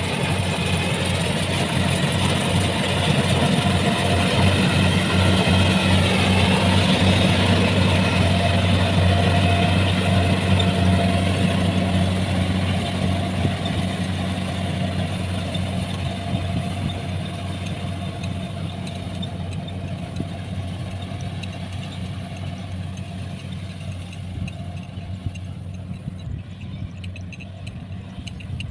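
Combine harvester's diesel engine running steadily with a low drone, loudest in the first half, then growing gradually fainter.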